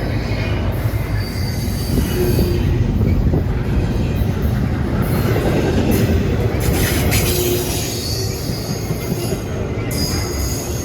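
CSX intermodal container freight train rolling past: a steady rumble of steel wheels on rail, with high wheel squeals that come and go several times.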